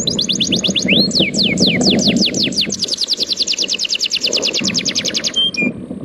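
A songbird singing a long, rapid trill of downward-sweeping whistled notes, slowing to longer sweeps for a moment near the second second. Sea surf washes steadily underneath.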